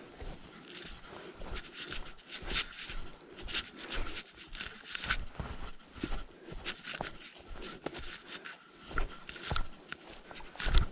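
Irregular rustling, scraping and crackling, with a faint steady high tone underneath and one louder knock near the end.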